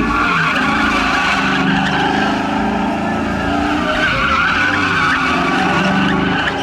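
A car's engine held at high revs, its pitch rising and falling, with the tires squealing and spinning in a sustained skid, as in a donut or burnout.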